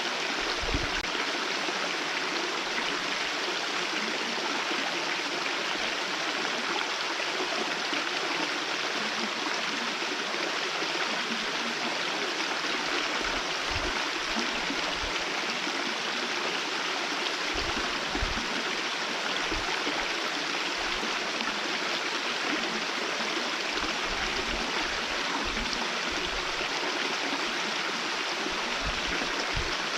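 Small waterfall with a very thin, meagre flow, its falling water making a steady, even rushing.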